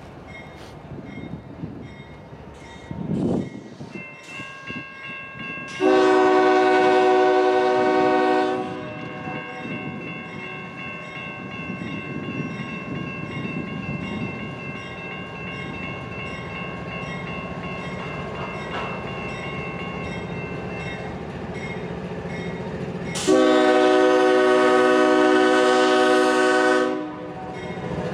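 Freight locomotive air horn sounding two long blasts, about three and four seconds long and some fifteen seconds apart, over the rumble of a passing train that grows louder.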